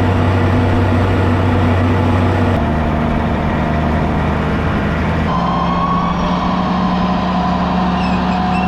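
Farm tractor engine running steadily. Its pitch changes abruptly twice, about two and a half and five seconds in, and a faint higher whine joins it after the second change.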